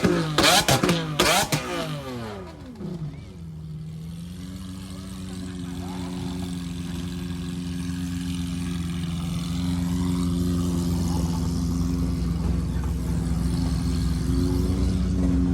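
A car engine revving hard with sharp cracks from the exhaust, its pitch falling away over about the first two seconds. Then a steady low engine note at an even pitch, slowly getting louder, as a car idles or creeps nearby.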